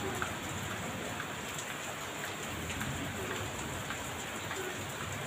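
Heavy rain falling steadily, with many small drop ticks on a hard surface.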